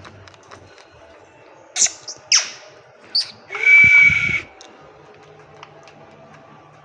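Indian Ringneck parakeet calling: two sharp, falling squawks, a short chirp, then a loud, shrill screech lasting about a second.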